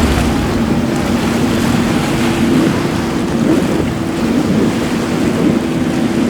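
Powerboat engines running with a steady hum, over rushing water and wind on the microphone.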